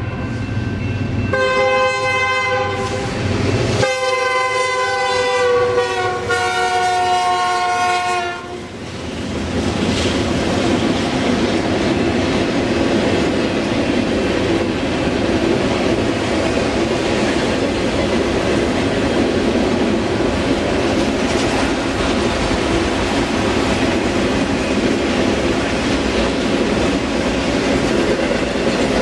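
A BNSF freight locomotive's air horn sounds several blasts for the grade crossing, ending in a long blast that drops in pitch as the locomotive passes, about six seconds in. After that comes the steady rolling noise and clickety-clack of autorack cars going by.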